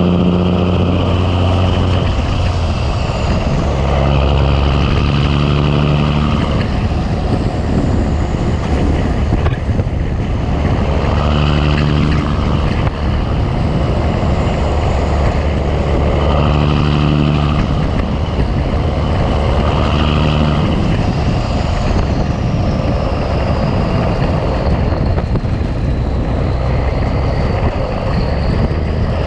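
Big Cam Cummins inline-six diesel in a 1986 Ford LT9000 truck running down the road under load. Its deep engine note swells and fades every few seconds over a constant low rumble.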